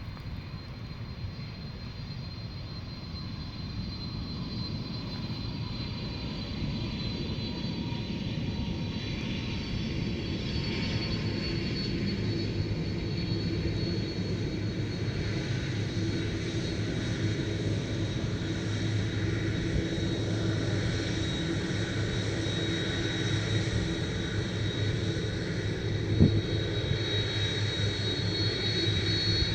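Turbofan jet airliner engines: a steady low rumble with a high whine that grows slowly louder as the aircraft approaches. A single short knock sounds near the end.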